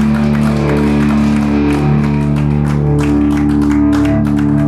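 Live band playing: sustained guitar chords over regular drum hits.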